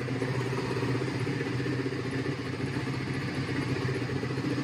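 Suzuki SV650's 90-degree V-twin engine idling steadily.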